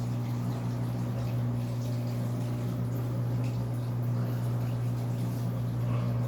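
Electrolux LAC13 washing machine filling with water: water running into the tub over a steady low hum.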